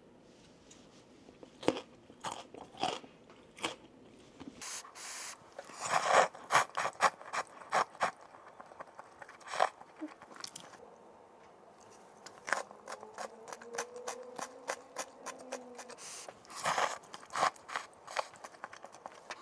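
A person chewing and biting crunchy food close to the microphone: a run of irregular crisp crunches with short pauses between mouthfuls.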